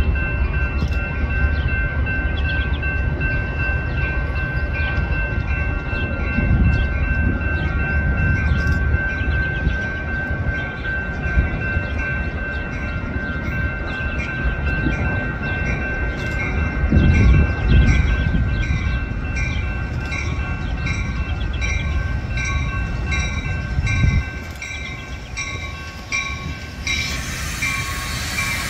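Train rumbling past a grade crossing while the crossing bell rings, a steady repeated strike about one and a half times a second. The rumble eases off about three quarters of the way through.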